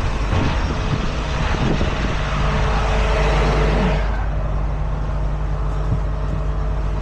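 Heavy truck engine running steadily, with a broad hiss over it that cuts off about four seconds in.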